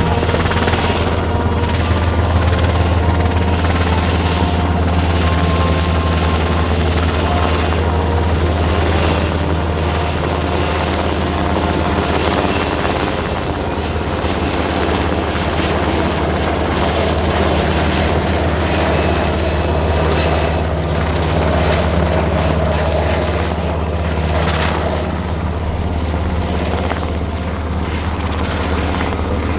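Sikorsky MH-60R Seahawk helicopter flying past, its rotor and twin turboshaft engines giving a loud, steady drone.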